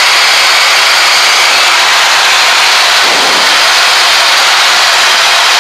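Loud, steady rush of jet engine and airflow noise in a Cessna Citation Excel cockpit during the climb-out. It cuts in and cuts off abruptly.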